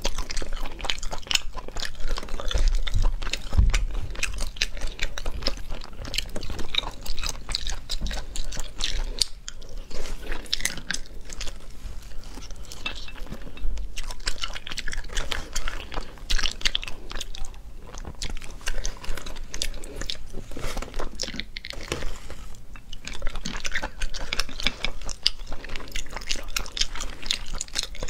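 Close-miked chewing of cooked sea snail meat, with many small sharp clicks and wet smacks at an irregular pace.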